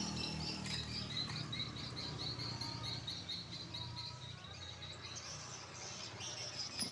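High-pitched chirping in a fast, even series of about five short chirps a second.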